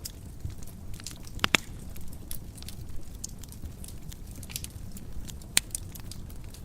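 Fire burning in a fireplace, crackling: frequent small sharp snaps over a low steady rumble, with louder pops about a second and a half in and near the end.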